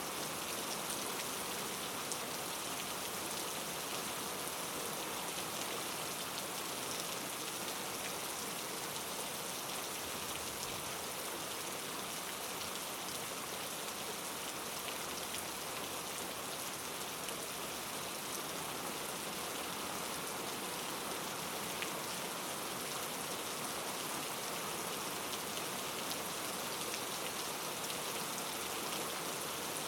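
Steady rain falling on a surface, a continuous even hiss with many fine drop ticks.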